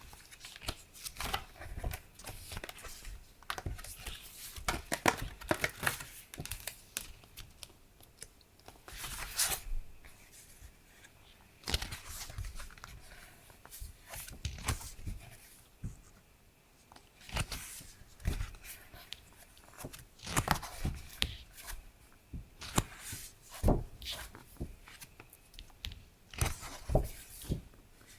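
Paper and plastic packaging being handled and torn open as stationery is unwrapped, in irregular rustles and sharp crackles.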